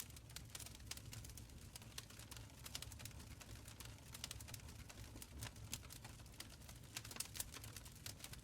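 Open fire crackling in a stone hearth: a quiet, steady run of small irregular pops and snaps over a low rumble of the burning fire.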